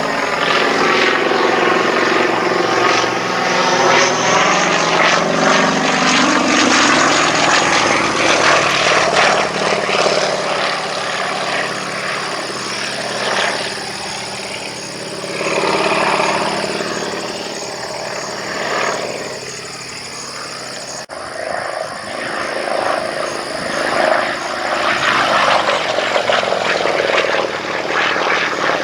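Pitts Model 12 aerobatic biplane's nine-cylinder radial engine and propeller running hard through a display routine, the pitch repeatedly sweeping up and down and the level swelling and fading as the aircraft manoeuvres.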